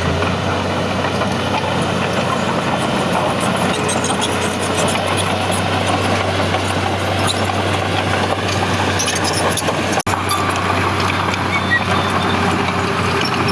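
Heavy diesel engine of earthmoving machinery running steadily under work, with a low hum and dense mechanical noise. The sound cuts out for an instant about ten seconds in.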